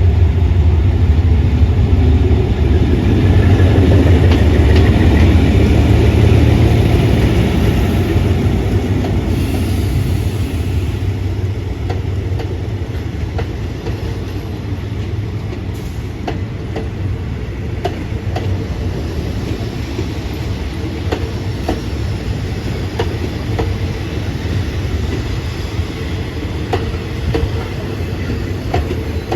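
Train passing close by: a heavy low rumble, loudest in the first several seconds, then the cars rolling past with wheels clicking regularly over the rail joints.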